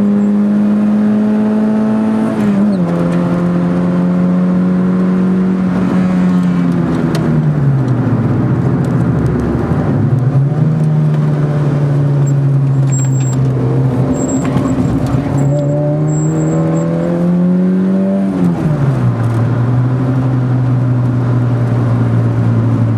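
Car engine heard from inside the cabin at track speed, its note climbing under acceleration and dropping sharply at upshifts about two and a half seconds in and again later. In between, the note falls slowly as the engine eases off and then climbs again.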